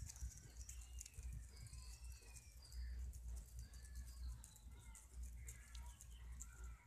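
Faint outdoor ambience: scattered bird chirps and calls over a steady low rumble.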